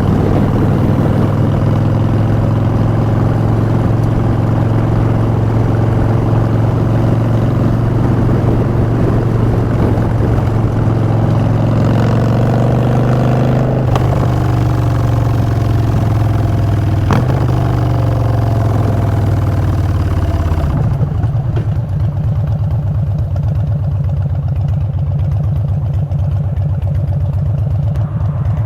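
2016 Harley-Davidson FXDB Street Bob's Twin Cam V-twin running through Vance & Hines Short Shots exhaust, holding a steady cruise with two sharp clicks midway. About two-thirds of the way through it drops to a pulsing idle.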